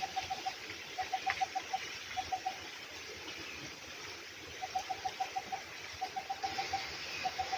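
A bird calling in quick runs of short, evenly spaced notes, about eight a second, each run lasting under a second and repeating every second or so, over a steady background hiss.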